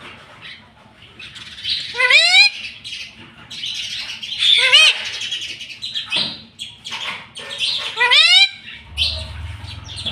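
Ring-necked parakeet calling: three loud rising screeches about three seconds apart, with softer chattering in between.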